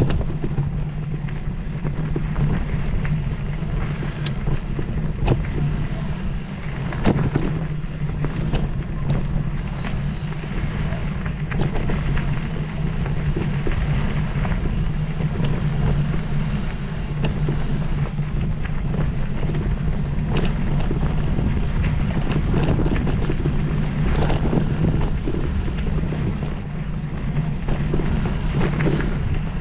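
Wind buffeting the microphone over a steady low hum, with frequent short clicks and rattles throughout.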